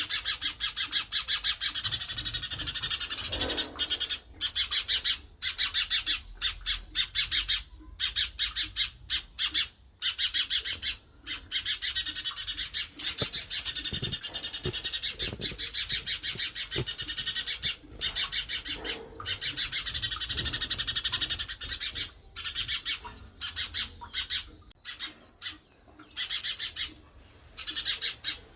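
Birds at a nest chirping: high-pitched calls repeated many times a second, in runs broken by short pauses.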